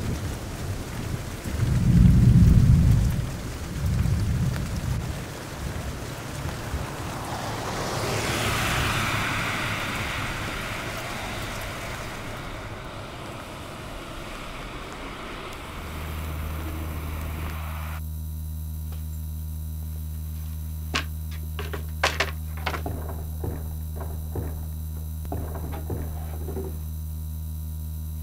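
Heavy rain falling, with a loud low rumble of thunder about two seconds in and a smaller one soon after. About halfway through, the rain gives way to a steady electrical mains hum, with scattered crackles and clicks from a handheld two-way radio in the last third.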